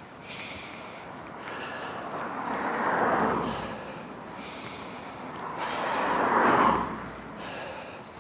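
Two motor vehicles passing the bicycle one after another on the road, each swelling up and fading away. The rider's breathing sounds throughout in short, regular puffs.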